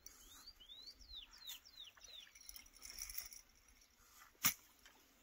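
A bird calling, a quick run of about six short arched whistled notes in the first two seconds, followed about four and a half seconds in by a single sharp click, the loudest sound.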